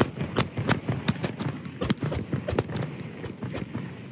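Chinese ground fireworks going off in a rapid, irregular string of sharp bangs and pops, several a second, thinning out and getting quieter near the end.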